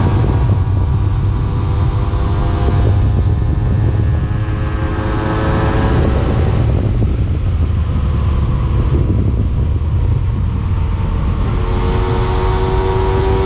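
A 125 cc enduro motorcycle engine running under way, its pitch falling around the middle as the revs drop and rising again near the end, over a steady low rumble.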